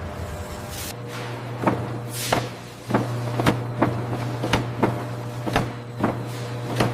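Production-line machinery: a steady low hum with sharp clacks coming about two or three times a second, and a falling whoosh about two seconds in.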